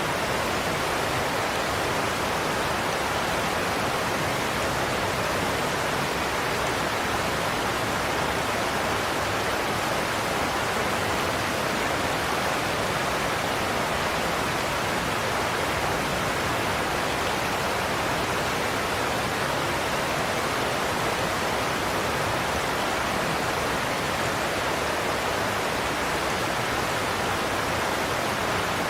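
Godafoss waterfall: a heavy cascade of water pouring over a cliff, heard as a steady, even rush.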